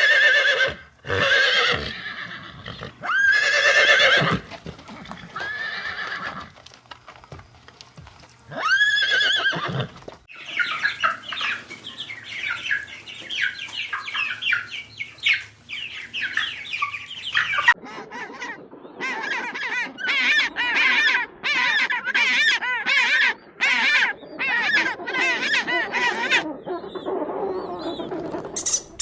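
A run of different farm animal calls: several loud, separate calls about a second long in the first ten seconds, then a flock's dense overlapping chattering, then rapid calls in repeated bursts from about eighteen seconds in.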